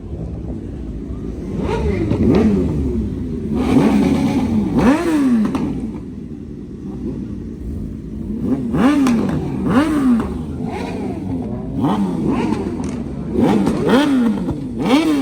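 A high-performance engine being revved in short free-revving blips, several times over in small clusters, the pitch shooting up and dropping back with each blip.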